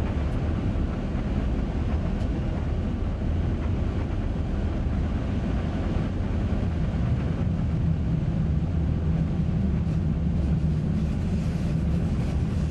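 Electric train running steadily along the track, a constant low rumble of wheels on rails.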